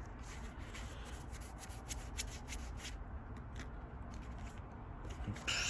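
Pokémon trading cards being handled: faint rubbing and sliding with many small clicks, busier in the first few seconds, and a brief louder rustle near the end.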